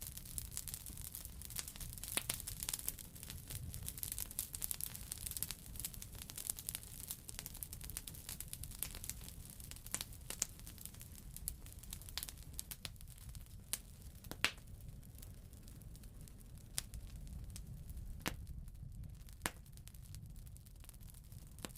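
Wood fire crackling in a fireplace: irregular sharp pops and snaps over a steady low rumble and soft hiss. The pops come thick at first and thin out in the second half, with a few louder single snaps.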